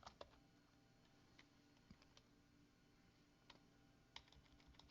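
Near silence with a few faint, scattered computer keyboard clicks as a file path is typed.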